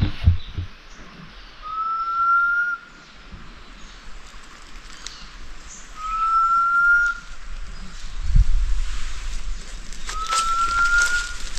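Three short, slightly rising whistles, evenly spaced about four seconds apart.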